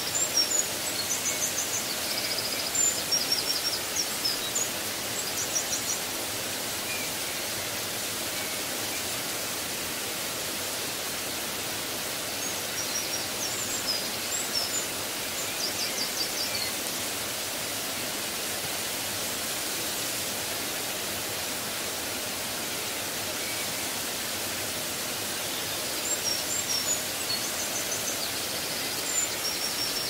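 Small birds chirping and trilling high-pitched in three short spells over a steady, even hiss like rushing water or wind.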